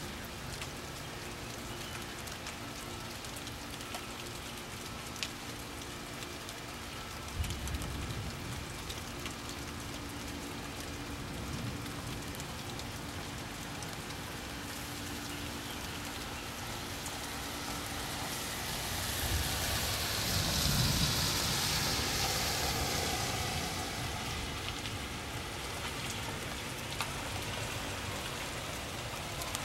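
Steady rain falling on the street and yard during a thunderstorm. About two-thirds of the way through, a louder whoosh swells and fades over a few seconds.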